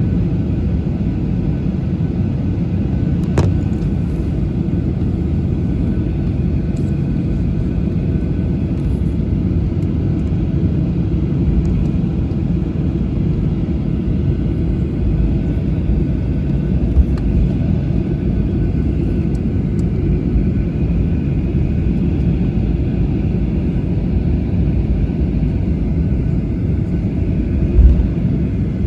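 Cabin noise of a Boeing 737-800 taxiing: a steady low rumble from the idling engines and the wheels rolling over the taxiway. A short click comes about 3 seconds in, and a thump near the end.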